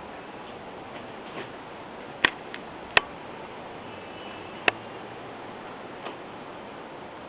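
Kittens eating, with five or six sharp, separate clicks against their food dish over a steady background hiss.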